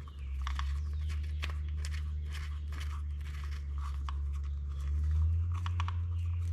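Scattered small clicks and scrapes of parts and tools being handled as the motorcycle's oil fill cap plug and cover are refitted, over a steady low hum.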